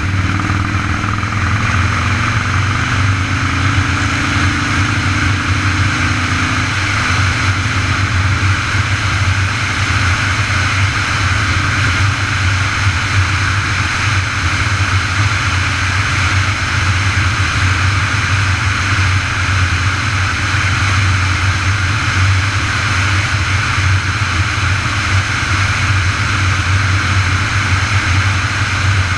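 Steady rush of wind and road noise on the camera microphone of a moving bicycle. A fainter tone slowly falls in pitch over the first seven seconds.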